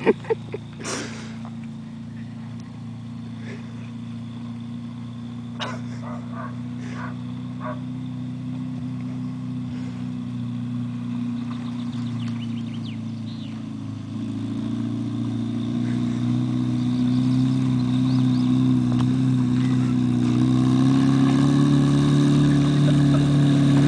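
Car engine running steadily at low revs while towing, growing gradually louder through the second half as the car comes nearer. A few short sharp sounds stand out in the first seven seconds.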